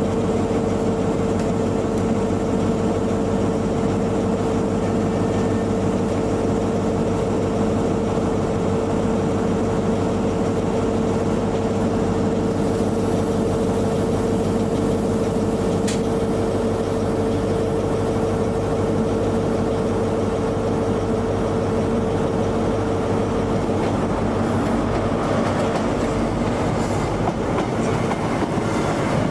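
A train running close by, a loud steady rumble with a constant whine over it. The whine drops out about 24 seconds in and the noise turns brighter.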